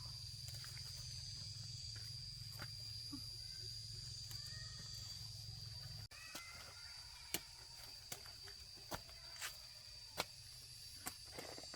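Field ambience: a steady high-pitched insect drone, with scattered light clicks and knocks. A low rumble drops away suddenly about six seconds in.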